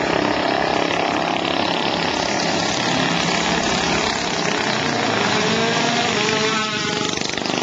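Small minibike engines running steadily and loudly.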